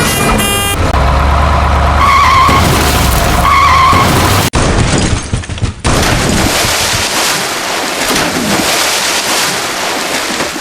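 Dubbed-in vehicle sound effects: a heavy engine rumble with two short high tones over it, an abrupt cut, then a long hiss like skidding tyres.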